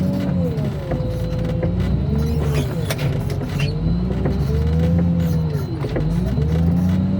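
Diesel engine of heavy scrap-yard equipment working its hydraulics, its revs rising and falling over and over as it takes load, with occasional metal knocks.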